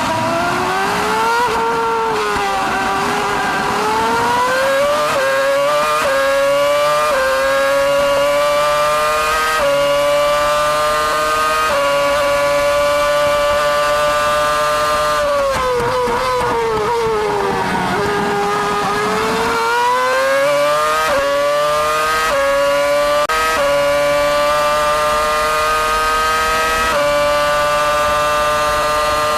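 Ferrari 248 F1's 2.4-litre V8 Formula 1 engine at high revs, heard onboard. It climbs in pitch through a run of quick upshifts, drops through downshifts under braking about halfway through, then climbs through the gears again.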